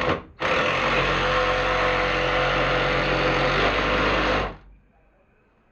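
A handheld electric drill runs steadily for about four seconds at a constant speed, starting and stopping abruptly.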